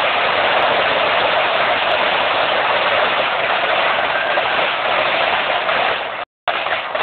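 Fireworks grand finale: a dense barrage of bursts and crackle blending into one steady, loud roar. The sound drops out completely for a moment near the end.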